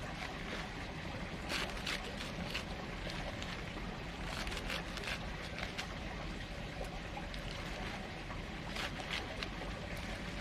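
Water splashing and trickling over a steady low rumble, with short irregular splashes throughout.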